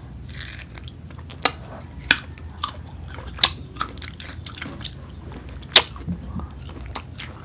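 Close-up mouth sounds of someone biting and chewing crisp unripe green mango, with a few sharp crunches spread through.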